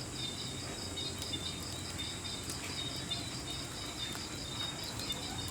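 Crickets or similar insects chirping in a steady, fast, even pulse of high-pitched trills, with a continuous thin higher buzz.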